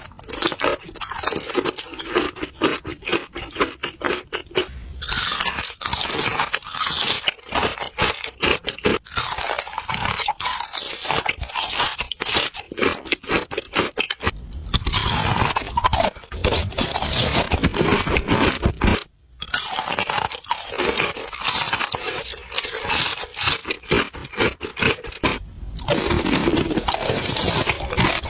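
Close-miked food ASMR chewing and biting: a dense run of rapid crunching clicks, with a few longer, noisier chewing stretches and a brief pause a little past two-thirds of the way through.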